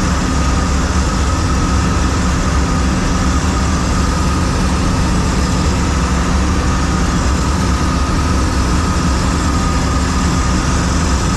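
John Deere 4400 combine running steadily: a constant heavy engine drone with a steady high whine from the machine.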